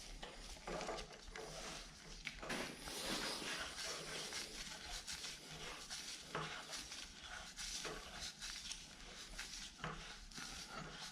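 Quiet hand-work noises on a milling machine head: a continuous rubbing and scraping with scattered small clicks and taps of metal parts being handled as the spindle cap is put back on.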